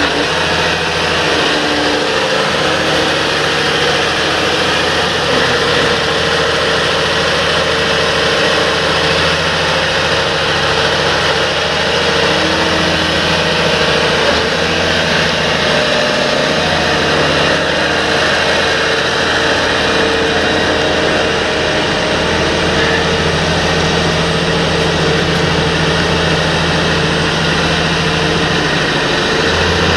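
Large John Deere tractor's diesel engine running steadily with a constant deep hum, its pitch shifting slightly now and then.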